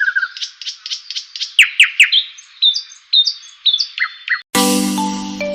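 Several birds chirping and calling in quick repeated notes and short whistles. About four and a half seconds in they cut off and chime-like music starts.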